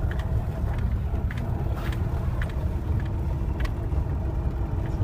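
Moskvich 2140's inline-four engine running under load as the car drives through snow, a steady low rumble. A few short knocks are heard along the way.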